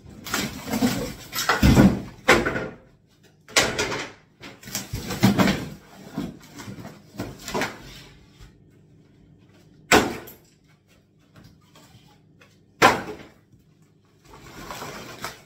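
Kitchen wall cabinets being knocked apart for flat-packing: wooden panels clattering and knocking in a busy run over the first eight seconds, then two sharp single bangs, a few seconds apart.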